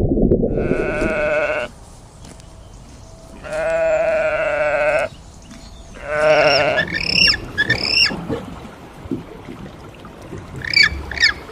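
Three long bleating animal calls, each a wavering pitched cry, followed by short high chirps, twice.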